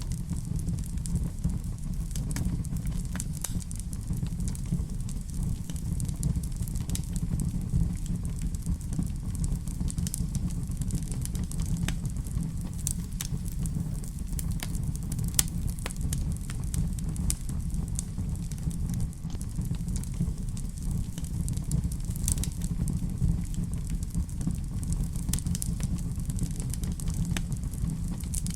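Wood fire in a fireplace burning steadily: a low, even rumble of the flames with frequent sharp crackles and pops scattered throughout.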